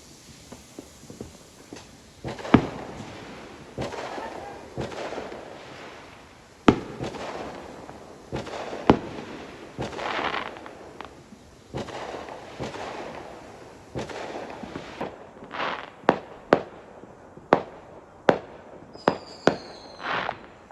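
Fireworks going off: scattered bangs, each trailing into a rumble, then a quicker run of sharp cracks over the last five seconds with a brief whistle among them.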